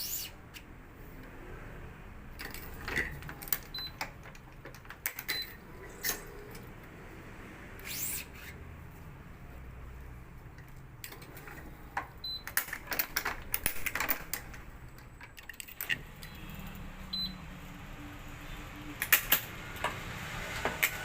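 Badminton racket stringing on an electronic stringing machine: irregular clicks and rattles of the clamps and tensioner as BG66 Brilliant string is pulled to 28 lb, with a few short high beeps.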